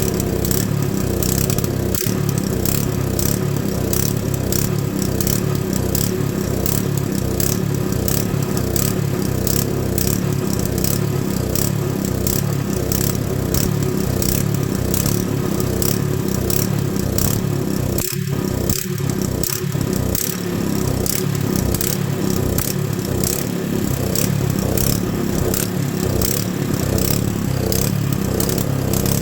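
Honda GX110 single-cylinder four-stroke engine running steadily.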